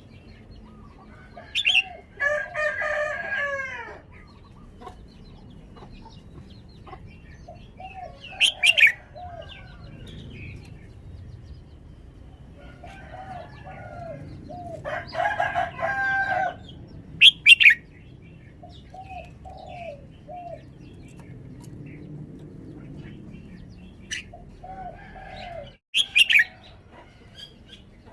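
Red-whiskered bulbul singing in short bursts of quick, bending whistled phrases with a few sharp loud notes, the bursts several seconds apart.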